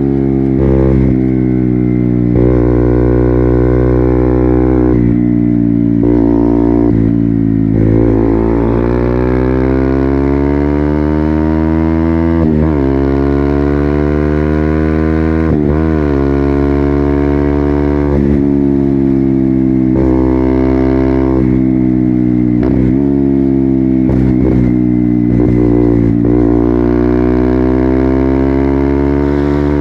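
KTM Duke 200 single-cylinder four-stroke engine through an Akrapovic full-system exhaust, ridden through the gears. The engine pitch climbs and drops again and again, with short breaks at the gear changes and longer, slower swells as it accelerates and rolls off.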